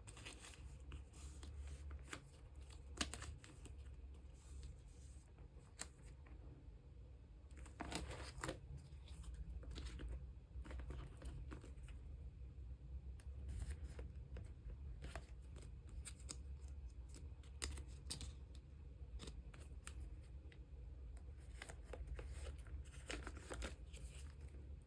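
Photocards being handled and slid into clear plastic card sleeves and binder pages: irregular crinkly plastic rustling with small clicks and scrapes, over a low steady hum.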